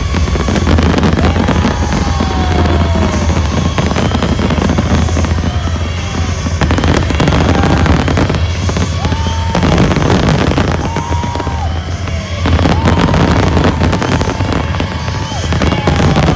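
A dense barrage of fireworks going off in rapid bursts, over loud electronic dance music with a steady deep bass.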